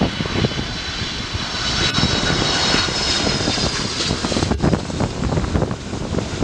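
Jet airliner's engines passing close by, a loud rumble with a high whine that drifts slightly lower in pitch. Wind buffets the microphone.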